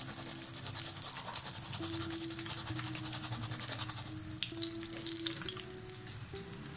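Chicken macaroni bread rolls deep-frying in hot oil: a steady crackling sizzle, with the rolls golden-brown and done.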